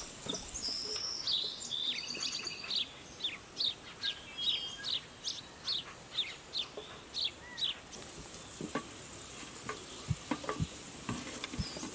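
A small bird calling over and over, a quick high falling note repeated about twice a second. Near the end come a few light snaps and knocks of dry twigs being handled.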